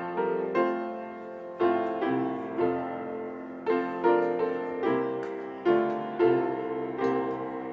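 Solo piano playing slow chords, each struck and left to ring out before the next.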